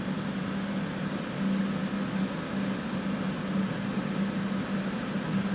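Electric fans running steadily in the workshop: an even rushing noise with a low, steady hum.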